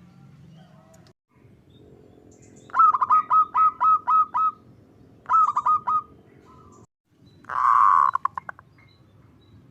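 Zebra doves (perkutut) calling. A quick run of about seven clipped cooing notes comes first, then a shorter run of four, then a louder drawn-out note near the end that breaks into a few fast stutters.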